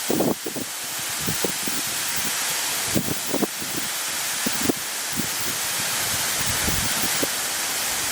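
Steady rushing hiss of a tall vertical waterfall, with wind gusting on the microphone in irregular low thumps.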